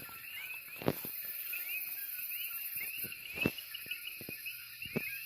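Night chorus of many coquí frogs, short rising chirps overlapping several times a second over a steady high insect hiss, with a few sharp knocks about a second in, midway and near the end.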